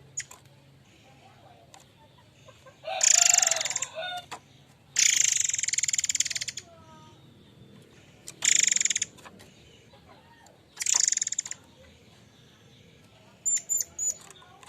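Murai air mancur bird giving four harsh, rasping calls, each half a second to a second and a half long, then three short high notes near the end.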